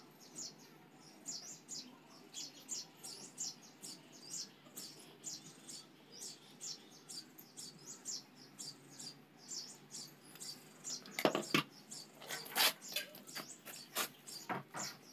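Small birds chirping over and over in short, high, falling notes, several a second. Several sharp clicks and knocks come about eleven seconds in and again near the end as the angle grinder and its parts are handled and set down.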